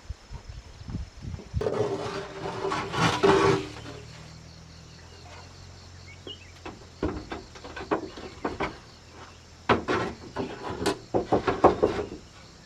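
Wood being handled: a rough scraping rustle about two seconds in, then a run of irregular sharp wooden knocks and clatters, thickest near the end.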